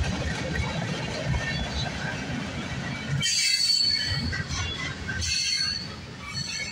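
Freight train's tank cars and covered hopper rolling past with the low rumble of steel wheels on the rails; about three seconds in, the wheels start squealing high-pitched against the rails, in two spells, as the last car goes by.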